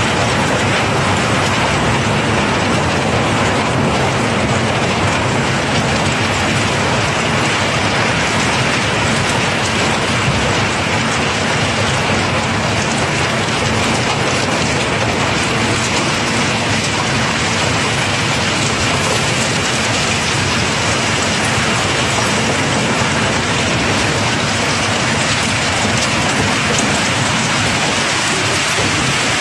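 Cobblestones pouring in a continuous stream as a barge's cargo is unloaded: a dense, steady rattle of rolling, knocking rock over a low machine hum.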